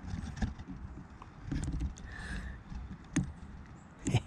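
Scattered clicks and knocks of hand tools and small metal parts being handled while a star-shaped retaining washer is worked onto a fitting, with a short squeak about two seconds in. The sharpest knocks come a little after three seconds and just after four seconds.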